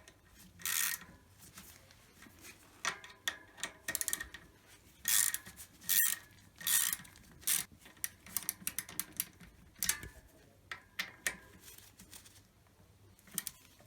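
Scattered metallic clicks and short scrapes of hand tools on a bicycle disc brake caliper as it is clamped and its mounting bolts tightened, with a few quick runs of clicks.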